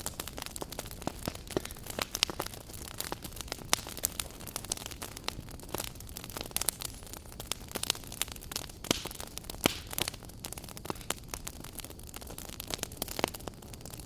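Wood fire burning in a fireplace, crackling with many irregular sharp pops over a steady low hiss.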